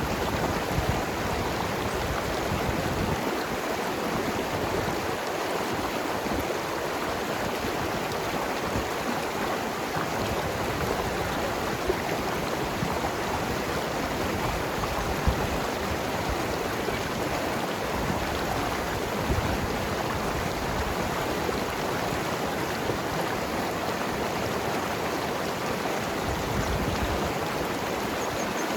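Mountain river flowing and gurgling over rocks: a steady rush of water with a few brief, slightly louder splashes.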